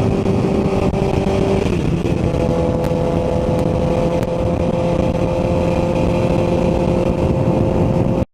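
Honda CBR1000RR inline-four engine running while riding, with wind and road noise. The engine note steps up in pitch just under two seconds in, then holds steady.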